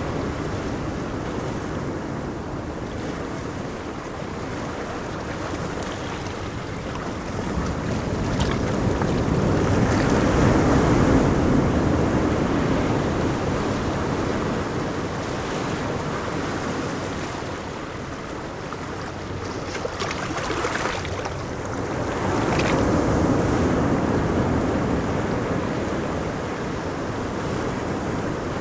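Ocean surf breaking on a beach, rising and falling as waves come in. The loudest swells come about a third of the way through and again about three-quarters through.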